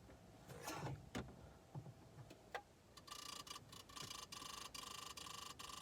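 Fast, faint clicking chatter from the dashboard of a 2014 Toyota hybrid that won't start, set off by pressing the brake pedal. It starts about three seconds in after a few single soft clicks and runs on with short breaks.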